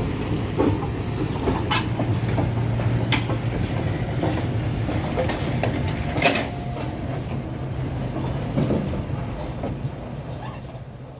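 Heritage railway train running on the track: a steady low hum and rumble with a few sharp clicks, fading out near the end.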